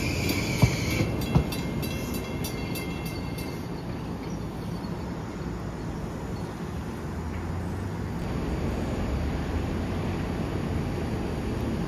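Long Island Rail Road train passing with a steady low rumble. For the first few seconds a high ringing tone with rapid, evenly spaced ticks sounds over it, then stops. Two sharp knocks come about a second in.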